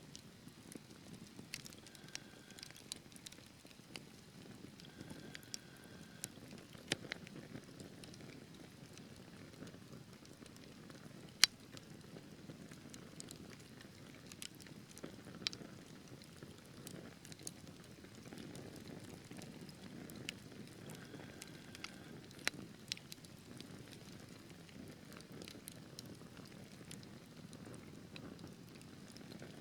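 Wood fire in a fireplace burning steadily, with a low rumble of flames and scattered crackles and pops of burning logs. One sharp pop stands out about eleven seconds in.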